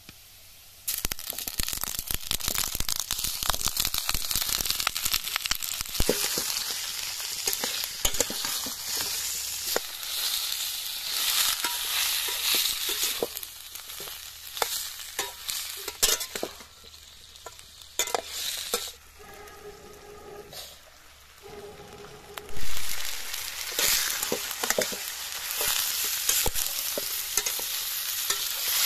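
Chicken feet, gizzards and other giblets hitting hot oil and fried onions in a stainless steel kadai, sizzling loudly from about a second in, while a steel spatula stirs and scrapes the pan with many clicks and knocks. The sizzle dies down a little past the middle, with one loud knock, then picks up again as the stirring goes on.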